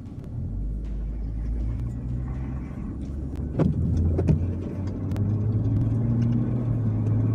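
Car engine running, its low hum climbing in pitch in steps as the car gets under way, with two sharp knocks a little past the middle.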